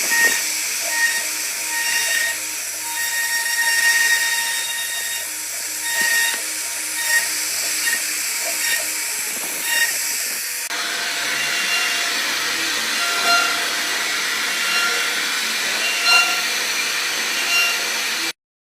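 CNC router carving wood: a steady high hiss from the spindle and cutter, with the stepper motors' whining tones starting, stopping and shifting pitch as the axes move. The sound changes abruptly about ten seconds in and cuts off suddenly near the end.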